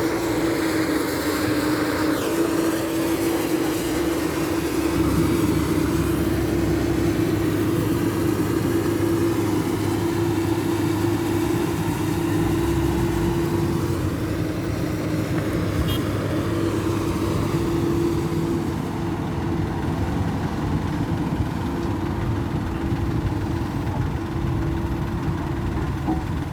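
Dump truck's diesel engine running steadily, a constant drone over a low rumble.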